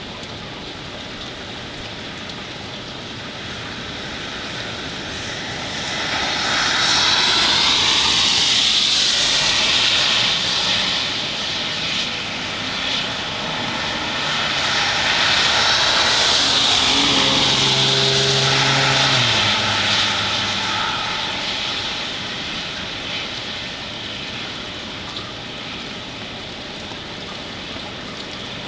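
Steady rain hiss, with two vehicles passing one after the other. Each swells up to a loud tyre and engine hiss and falls away in pitch as it goes by, about six seconds in and again near the middle.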